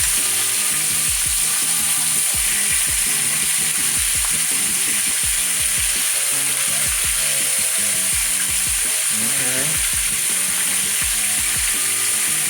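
Pieces of quail sizzling steadily in a deep pan on medium-high heat, browning and caramelizing in their sugar marinade.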